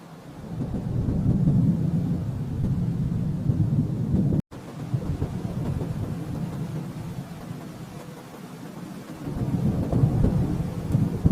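Rolling thunder rumbling low and deep. It builds in the first second, eases off after the middle, and swells again near the end, with a split-second dropout a little past four seconds.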